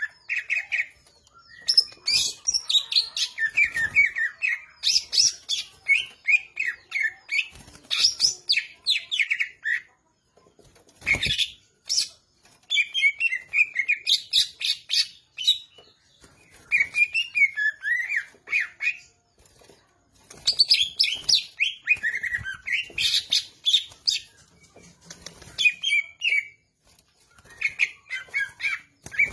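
A cucak ijo (green leafbird) singing in phrases of rapid chirping, gliding notes, in bursts of a few seconds with short pauses between. A single sharp knock comes about eleven seconds in.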